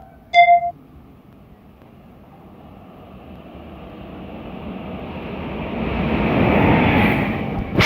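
A train approaches and passes at speed, its rumble building steadily to a peak near the end before falling away. A short, loud horn blast sounds about half a second in.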